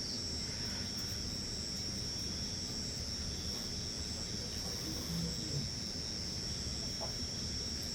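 Insects chirring in one continuous high-pitched tone, over a low background rumble.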